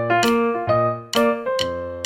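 Background music: a bright piano-like keyboard melody of short, quickly struck notes over a steady bass.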